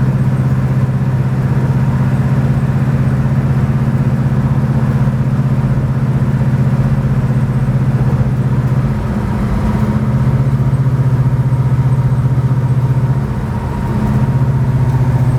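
Chevelle wagon's 427 V8 droning at steady highway cruise, about 1,900 RPM at around 70 mph. The drone dips briefly twice, about nine seconds in and again near the end.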